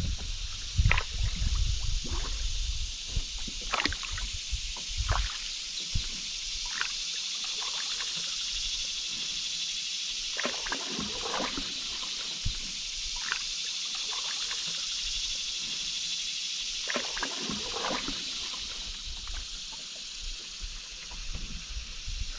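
A canoe paddle dipping and pulling through river water, with scattered small splashes and drips against a steady high hiss.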